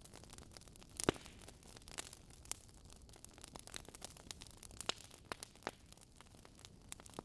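Wood campfire crackling: irregular sharp pops and snaps over a faint steady hiss, the loudest pop about a second in.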